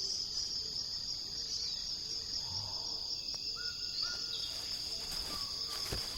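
Rainforest ambience: a steady high insect drone, with a soft low call repeating about twice a second and a few short rising notes a little after the middle.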